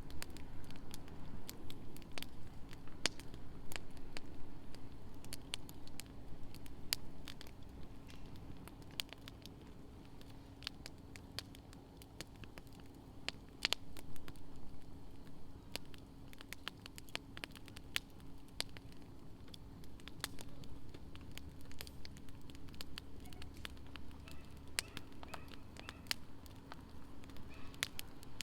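Wood fire crackling, with frequent irregular sharp pops and snaps from the burning logs, over a faint steady hum.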